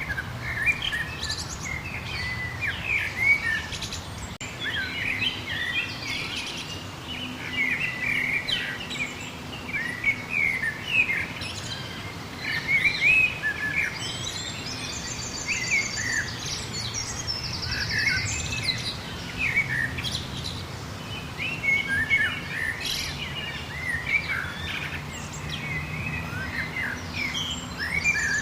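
Several birds singing and chirping at once, with many short overlapping calls and a rapid high-pitched trill heard a few times, over a faint low hum.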